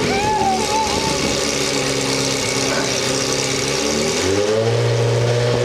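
Ferrari 360 Modena's V8 idling steadily. About four seconds in, its speed rises smoothly to a higher steady pitch and holds there.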